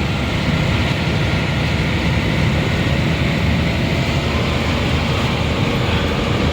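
Nissan Diesel UD440 crane truck's diesel engine running steadily under way, heard from inside the cab as a low drone mixed with road noise.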